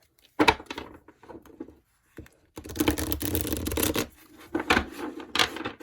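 Tarot cards being shuffled by hand: a sharp snap about half a second in, a dense rustle of cards in the middle, then a run of quick clicks.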